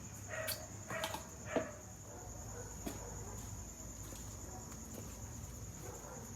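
Crickets or similar night insects keeping up a steady, continuous high-pitched trill. Three short pitched calls or voice sounds come in the first two seconds.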